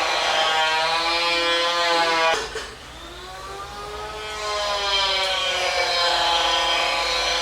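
Hair dryer running with a steady whining hum. About two and a half seconds in, it drops away, then spins back up over the next couple of seconds, its pitch rising until it runs steadily again.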